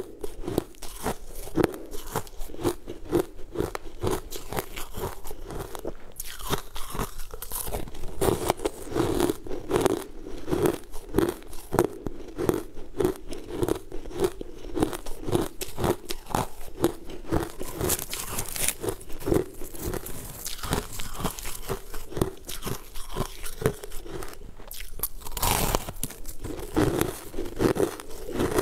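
Crumbly, crunchy white sweet being bitten and chewed in a steady run of rapid crunches. Now and then there is a brief crinkle of the plastic bag it is held in.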